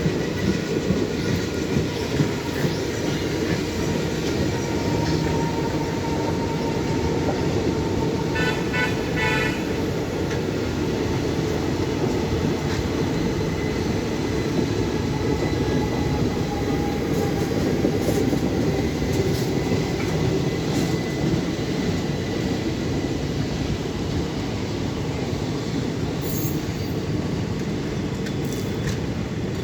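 Express train running past on the rails: a loud, steady rumble of wheels and carriages, with thin high squealing tones from the wheels running over it.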